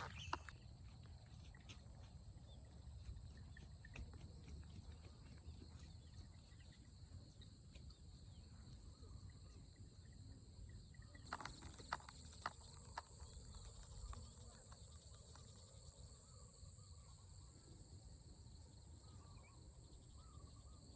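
Near silence with faint, irregular clicks and taps, a few slightly louder ones about halfway through.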